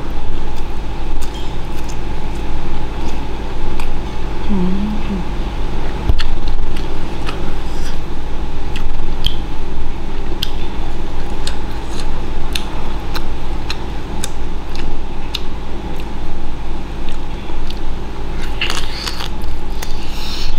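Close-up eating sounds: wet chewing and lip smacks with many sharp little clicks over a steady background hum. A short hummed 'mm' comes about four and a half seconds in.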